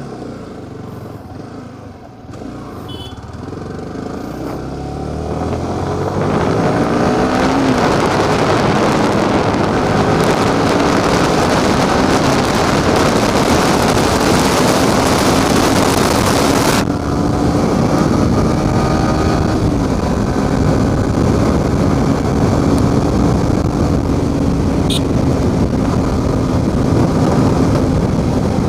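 Motorcycle engine pulling away and accelerating, its pitch rising over the first few seconds, then running steadily at cruising speed. Loud wind rushing over the microphone covers it until it drops away suddenly about two-thirds of the way through.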